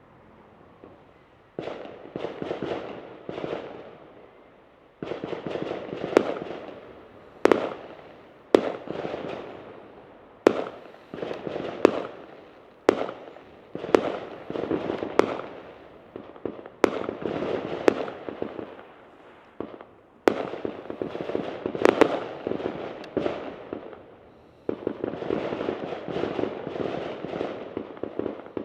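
Fireworks going off one after another: sharp bangs, each followed by crackling, starting about a second and a half in and running on with only brief lulls.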